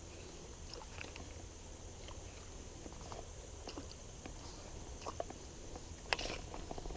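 Faint sloshing of river water around a wader, with small scattered ticks and a sharper clatter of clicks about six seconds in.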